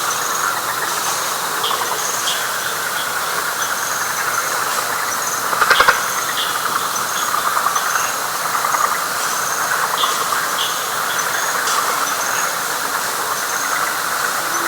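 Night chorus of frogs in a wet pine flatwoods swamp: a steady pulsing trill, with short high chirps repeating about once a second. A louder, nearer rattling call stands out about six seconds in.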